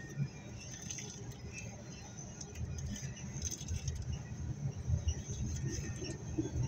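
Double-stack intermodal container train rolling through a grade crossing: a steady low rumble of the well cars, with irregular clicks and rattles from the wheels and couplings.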